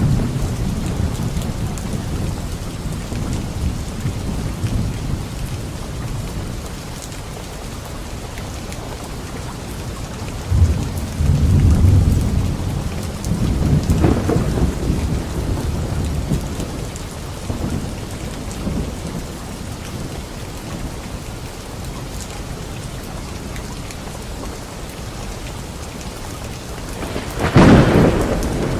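Steady rain falling on leaves, with thunder: a long low rumble about a third of the way in and a sharp, louder thunderclap near the end.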